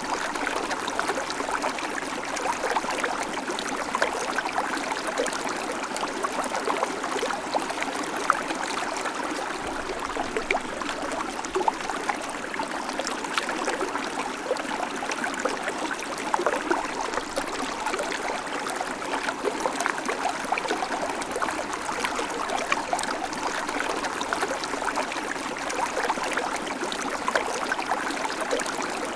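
Babbling creek: shallow water running steadily over stones, with constant small splashes and gurgles.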